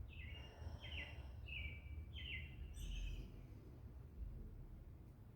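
A songbird calling five times in quick succession, short high notes that fall slightly in pitch, about two-thirds of a second apart, over a faint steady low background hum.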